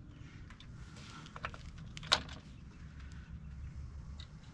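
Faint clicks and taps of hand tools on metal, with one sharper click about two seconds in.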